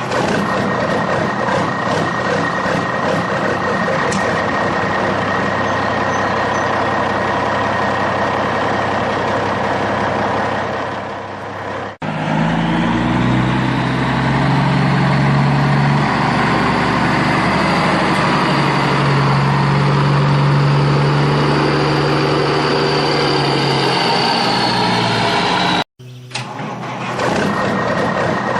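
Vehicle engine sound effects, spliced in segments: a steady engine run, then about twelve seconds in an abrupt switch to a deeper engine sound with a slowly rising whine, which cuts off suddenly near the end as the first engine sound returns.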